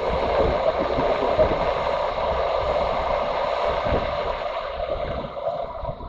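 Wind and road noise from a motorcycle being ridden at speed, with wind buffeting the microphone in uneven low thumps. The rush eases off near the end.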